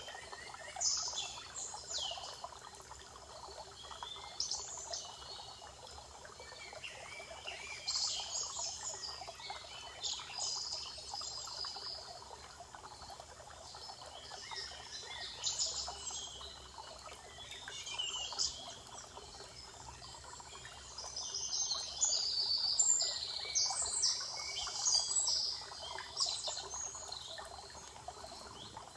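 Forest songbirds calling and singing in short, high, often falling phrases, busiest a little after two-thirds of the way through, over a steady rush of running water.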